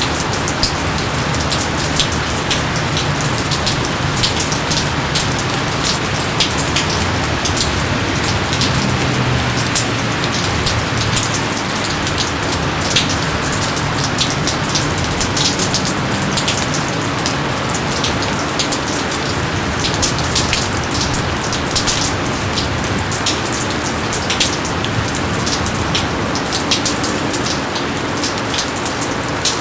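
Steady heavy rain falling in a jungle, a dense hiss with many distinct drops pattering on leaves and surfaces.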